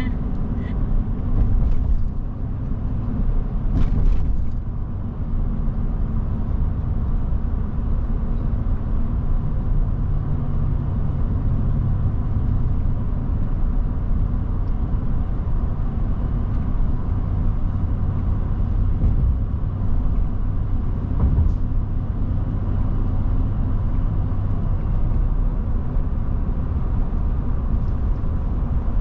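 Long BNSF manifest freight train rolling slowly past: a steady low rumble, with a brief sharper sound about four seconds in.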